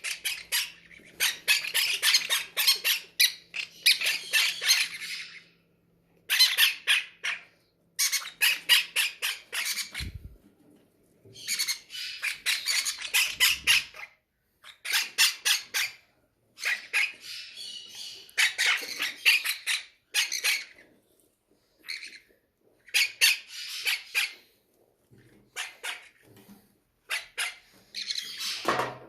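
Baby parrot chicks giving rapid, harsh begging squawks in repeated bouts of a second or two with short pauses between: hungry chicks calling for hand-feeding formula.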